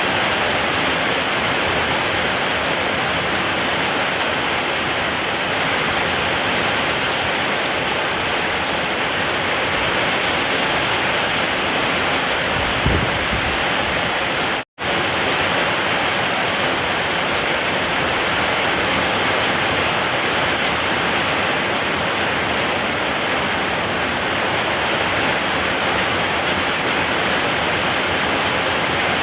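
Steady, even rain. About halfway through there is a brief low thump, and just after it the sound cuts out completely for a split second.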